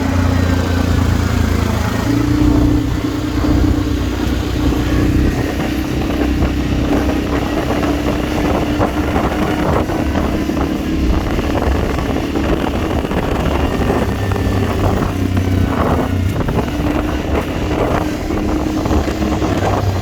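Quad bike engine running at a fairly steady speed, its drone holding one pitch with small steps up and down. Wind buffets the microphone, mostly in the second half.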